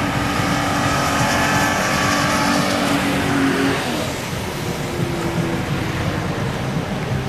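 Car engine revving hard under load while dune bashing on sand, its pitch climbing slightly and then dropping sharply a little under four seconds in before it picks up again lower. A steady rushing noise runs under it.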